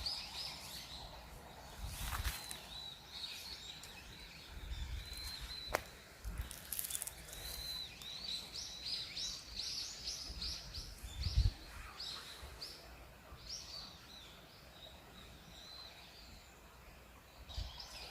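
Small birds chirping and twittering, many short high calls scattered throughout, with a few soft low thumps.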